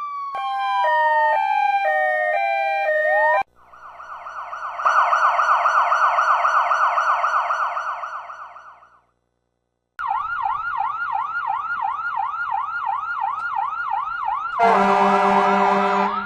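Emergency-vehicle sirens in quick succession. First a wail winding down under a two-tone hi-lo siren, then a fast-warbling electronic siren that swells and fades. After a second of silence comes a rapid yelp siren, with a loud steady horn blast over it near the end.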